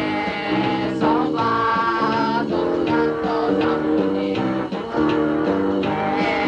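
Punk band playing, recorded on a dictaphone: strummed guitar chords that change every second or so, with occasional sharp drum-like hits.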